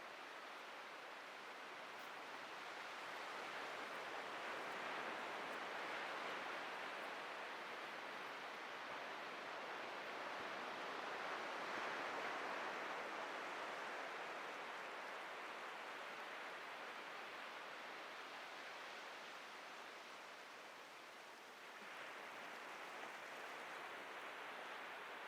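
Atlantic Ocean surf breaking and washing ashore: a steady hiss of waves that slowly swells and eases, dips briefly about twenty seconds in, then rises again with the next wave.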